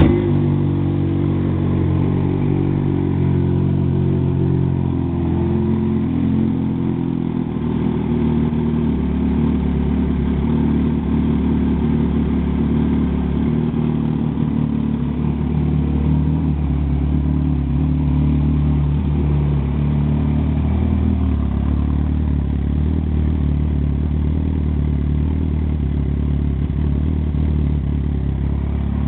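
2003 Yamaha YZF-R1's inline-four engine running at a steady idle through an HR1 Riot slip-on exhaust, just after starting up.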